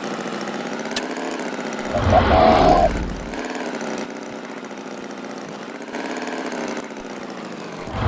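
A small engine running steadily, with a louder, deeper burst about two seconds in.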